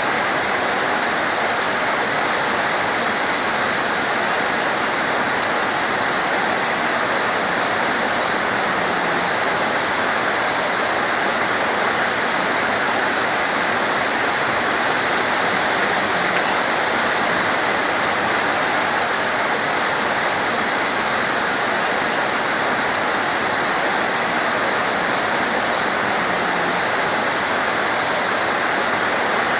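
Heavy torrential rain pouring down in a steady, dense hiss, with two brief sharp ticks, about five seconds in and again near twenty-three seconds.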